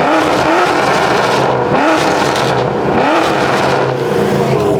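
A car engine revving in repeated rising blips, about one every second and a half, over a steady running note.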